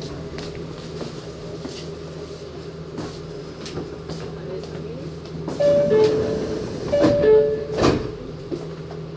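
Meitetsu 6000 series (first-batch) resistor-controlled electric train running, heard from on board as a steady low hum. About five and a half to eight seconds in it gets louder, with two short two-note tones and a few knocks.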